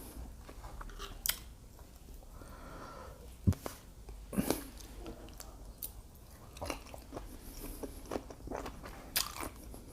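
Close-miked eating: chewing and biting with wet mouth clicks and smacks, a few sharper bites standing out, as shrimp and pasta are eaten.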